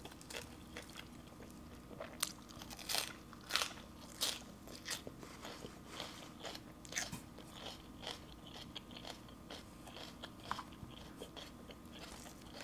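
Close-up crunching and chewing of a raw green leaf, crisp irregular crunches that are loudest a couple of seconds in and soften as the chewing goes on.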